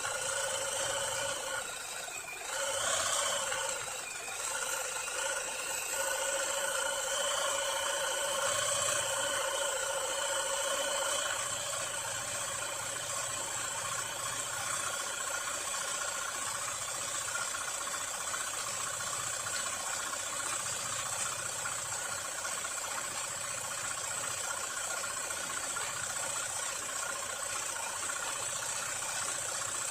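Riccar Bernina Holidayne 1090 household sewing machine running steadily, its motor and mechanism turning over at an even speed. The speed dips and comes back up about two to four seconds in.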